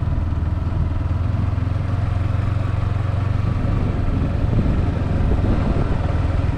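Yamaha R15 V4's 155 cc single-cylinder engine running steadily, heard from the rider's seat, with a constant low hum.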